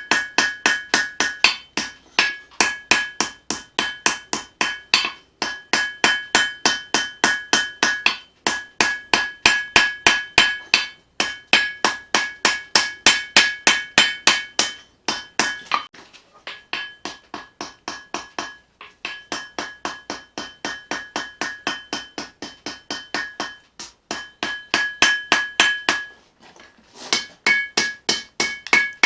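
Hammer forging a leaf-spring steel knife blade on an anvil: rapid, even blows of about three a second, each with a high, clear anvil ring, in runs broken by short pauses.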